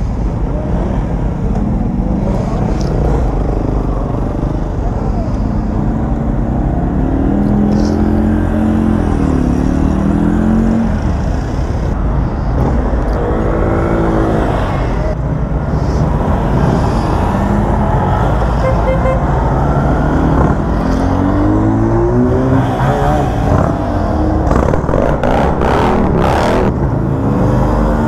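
Motorcycle engine running on the road, its pitch climbing and dropping several times as it accelerates and changes gear, over a steady rush of wind and road noise.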